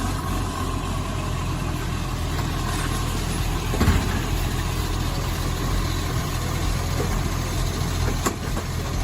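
An engine running steadily with a low rumble, with a brief thump about four seconds in.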